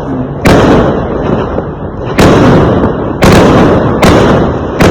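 Fireworks exploding: about five loud, sharp bangs at uneven intervals of roughly a second, each followed by a rumbling, echoing decay.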